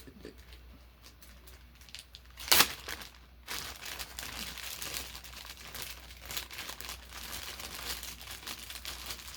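A candy wrapper crinkling as it is handled and unwrapped, a dense crackle starting about three and a half seconds in, after one sharp click a little before.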